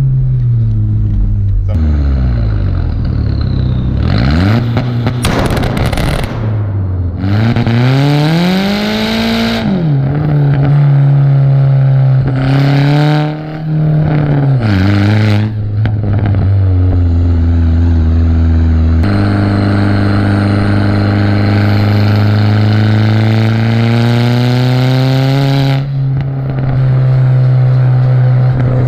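Turbocharged VW Jetta engine and exhaust under hard acceleration, the engine's pitch climbing and dropping back several times through the gears, then a longer, steadier pull in the second half. Short spells of rushing noise come between the pulls.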